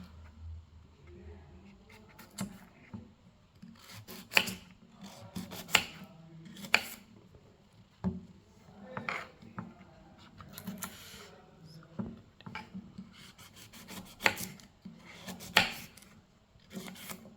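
Knife cutting through guava fruit: a series of separate scraping strokes, one to two seconds apart.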